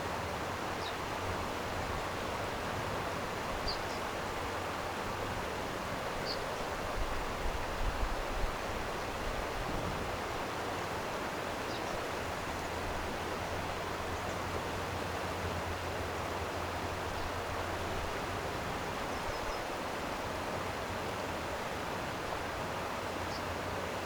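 Steady rushing of a flowing stream. A few brief, faint high chirps are scattered through it, and there is a short low rumble about eight seconds in.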